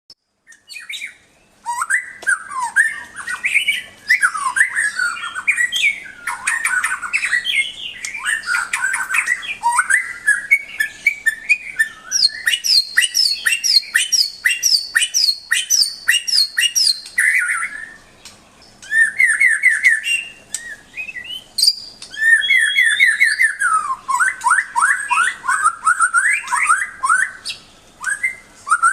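White-rumped shama (murai batu) singing a long, varied song: whistled phrases and fast runs of repeated notes, with a couple of brief pauses.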